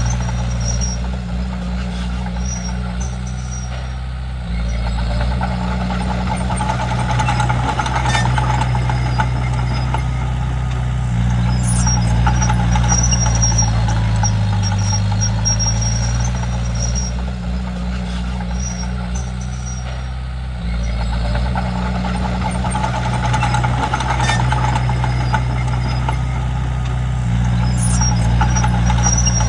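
Komatsu D31P bulldozer's diesel engine working under load. The engine note steps up and down every several seconds as the machine pushes and reverses, over a rattle of the machine working.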